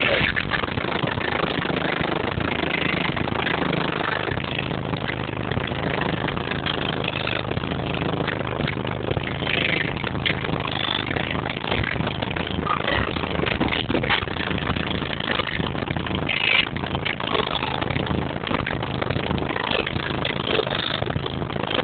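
Vehicle engine running steadily at low revs, heard from inside the cab as it rolls slowly.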